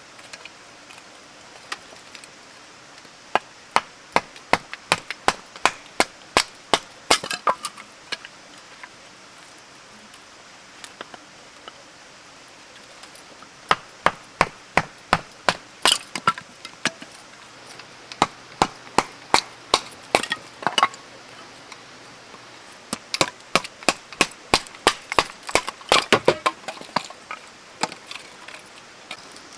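Firewood being split for a campfire: runs of sharp wooden strikes, about two to three a second, in four bursts with short pauses between them.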